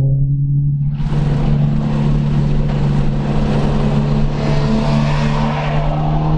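A 2014 Subaru BRZ's 2.0-litre flat-four engine pulling at low speed, heard from inside the cabin. It holds a steady note that fills out with a hissing edge about a second in, then rises in pitch near the end as the car speeds up.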